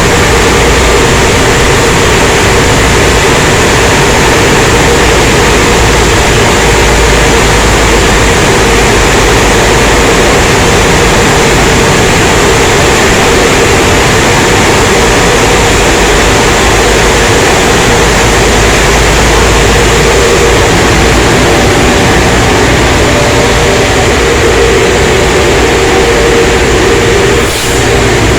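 Automatic car wash tunnel equipment running: a loud, steady rushing noise with a low hum underneath, dipping briefly near the end.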